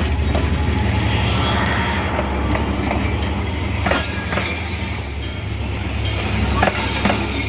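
A train passing close by: a loud low rumble with sharp clicks from the wheels running over the rails.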